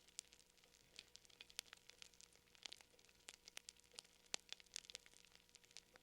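Fire crackling faintly, with irregular sharp pops and snaps over a faint steady hum.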